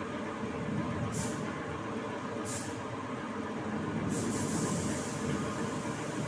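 Automotive paint spray gun hissing in short spurts of compressed air, about a second and a half apart, then spraying steadily from about four seconds in, over a steady machine hum.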